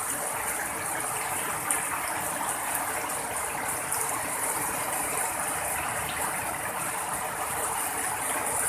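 Heavy rain falling steadily, a dense even hiss with faint pattering ticks of drops.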